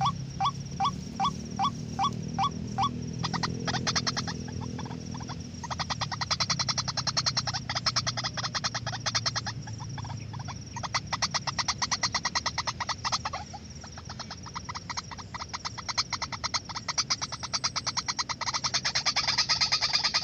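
White-breasted waterhen calling: first a string of repeated croaking notes, two or three a second, then, from about six seconds in, a long run of fast pulsed calls, with a short break near the middle and a steady low hum underneath.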